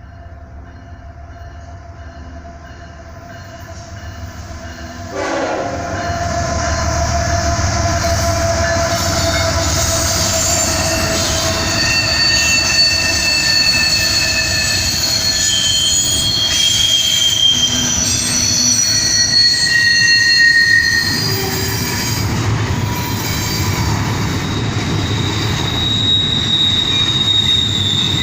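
CSX intermodal freight train passing: its diesel locomotives arrive with a sudden jump in loudness about five seconds in, a horn-like steady tone sounding through the first part. After that the cars roll by with a steady rumble and wheels squealing in high, drawn-out tones that come and go.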